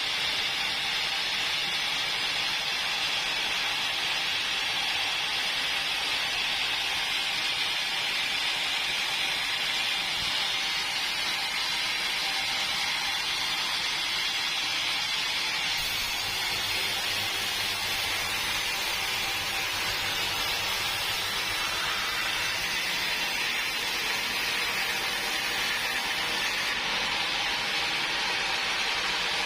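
Sawmill saw cutting through hardwood logs: a steady hissing run of sawing noise that keeps an even level with no break.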